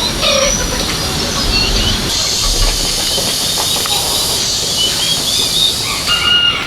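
Steady loud hissing noise, with short high chirps scattered over it.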